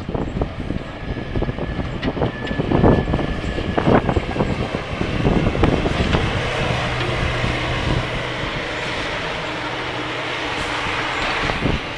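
A snowplow vehicle running while plowing, with steady rumbling noise and several knocks and clanks a few seconds in. A steady low hum comes in about halfway through.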